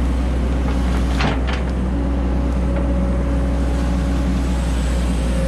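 Excavator's diesel engine running steadily at a constant speed, with one brief sharp click a little over a second in.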